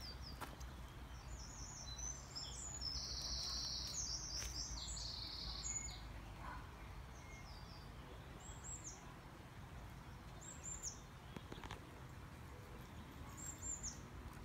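Small birds chirping: a busy run of quick chirps in the first few seconds, then single short calls about every two seconds, over a steady low background rumble.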